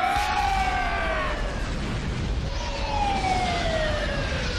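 Wailing siren, its pitch rising and then falling slowly in long sweeps, over a steady low rumble.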